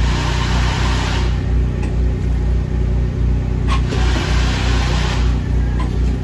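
Steady low drone of a running engine, with a rushing hiss over it in the first second and a single click partway through.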